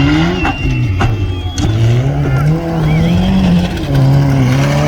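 Rallycross car engines running hard, the engine note falling, then climbing and dropping again with throttle and gear changes. A thin high squeal and a few sharp knocks sound in the first second and a half.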